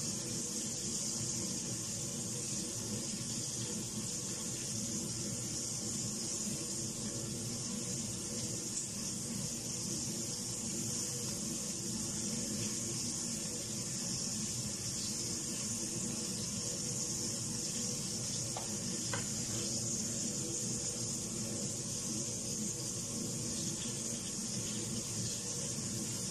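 Seafood pieces frying in oil in a wok, giving a steady sizzling hiss over a steady low hum.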